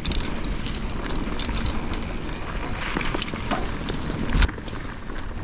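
Mountain bike riding down a wet dirt trail: steady tyre and wind noise with the bike rattling and clicking over roots, and one heavy knock about four and a half seconds in.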